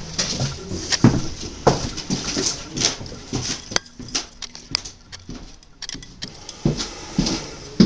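Footsteps going down old wooden back stairs: irregular knocks and thuds, one or two a second.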